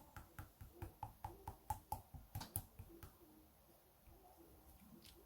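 Jelly-textured slime squished and pressed in the hands, giving a quick run of faint small clicks and pops, about four to five a second, that thin out after about three seconds.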